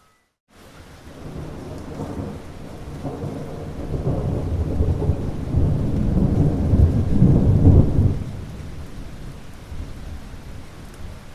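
Rolling thunder over steady rain: after a brief silent gap at the start, a deep rumble builds, peaks about two-thirds of the way in, then dies away while the rain keeps falling.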